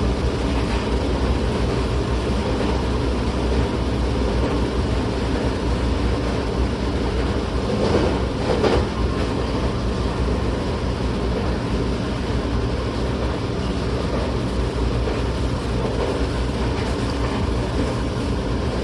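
Tokyo Metro 08 series electric train running at speed, heard inside the passenger car: a steady rumble of wheels on rail with a brief louder burst of noise about eight seconds in.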